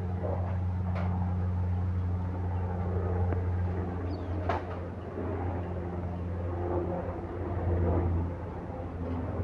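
Steady low engine hum, with a couple of faint clicks.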